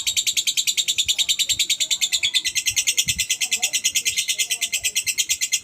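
Lovebird ngekek: a long, unbroken run of rapid high-pitched chirps, about ten a second, kept up evenly.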